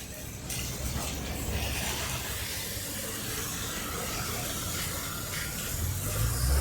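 Steady hiss of heavy rain and water spray on a wet street, with a vehicle's low rumble building near the end.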